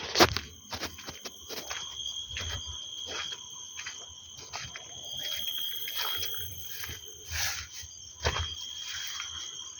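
Insects trilling steadily on one high pitch, with many scattered sharp clicks and taps over it.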